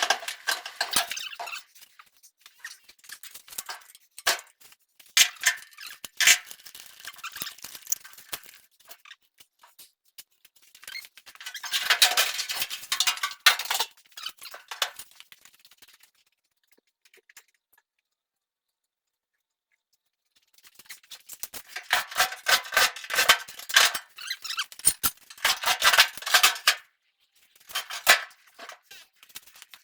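Bursts of metal clinking, squeaking and rattling as an engine is worked into a truck's engine bay, with a few seconds of silence about halfway through.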